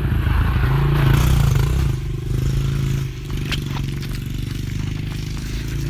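Honda CRF80F dirt bike's small single-cylinder four-stroke engine under throttle as the bike rides off, loudest over the first two seconds, then easing to a steadier, lower run after about three seconds. A few light clicks and clatter sound over the engine.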